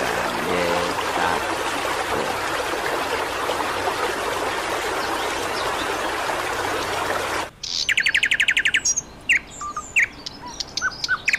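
Steady flowing water noise of an aquarium for about seven seconds, which cuts off abruptly; then small garden birds call at a feeder, with a fast trill twice and scattered short chirps.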